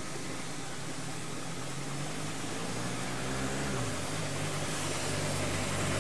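A vehicle engine running and growing louder. Its pitch rises, then drops about four seconds in, as at a gear change.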